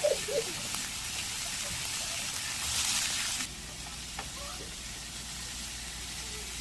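Food sizzling as it fries in a pan, a steady hiss that swells briefly, then drops suddenly to a quieter sizzle about halfway through.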